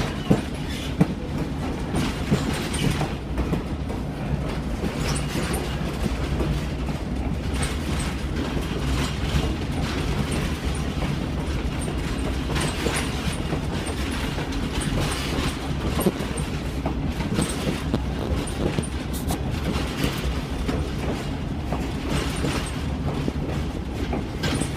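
Excursion train running along the track, heard from aboard: a steady low rumble with irregular clicks of the wheels over the rail joints.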